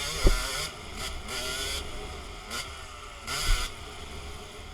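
Dirt bike engine revving up and down while riding. Wind gusts rush across the microphone, and there are two heavy low thuds, one just after the start and one about three and a half seconds in.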